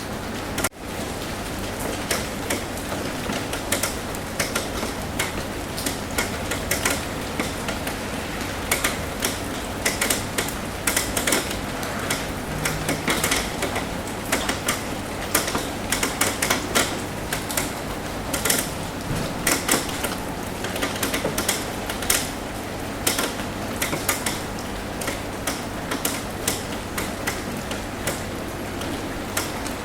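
Rain falling on a roof: a steady hiss with many irregular, sharp taps of drops striking the surface. There is a momentary break in the sound just under a second in.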